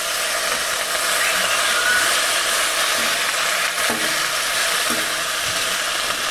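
Fresh roselle leaves sizzling in hot oil in a steel kadai as they are tipped in and stirred, a steady frying hiss.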